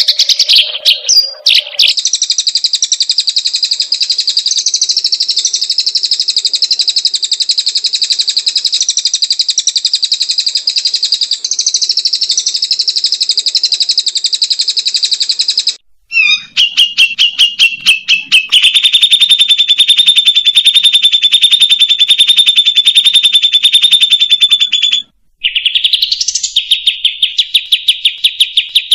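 Songbird song from a looped song-tutoring (masteran) recording: long, fast, buzzy trills of rapidly repeated notes. A trill about two seconds in breaks off abruptly near the middle, stutters, and resumes as a steady trill. That trill cuts off sharply a few seconds before the end, and another rapid trill follows.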